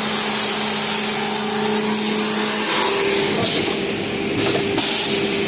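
Mecanica CNC slotting and tapping machine running on aluminium profile, a steady machine whine. About halfway through the whine changes pitch and turns noisier and less even.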